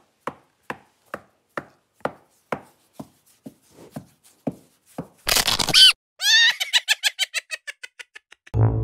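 Black puppy barking: one sharp high bark about five seconds in, then a quick run of high yips falling in pitch and fading. Before it, soft regular taps about twice a second.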